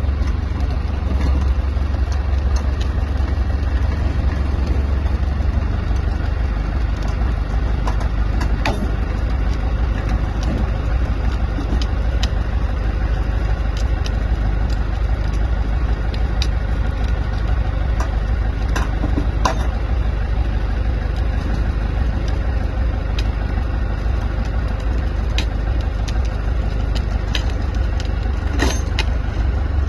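An engine running steadily at idle, a constant low drone, with scattered light clicks and knocks over it.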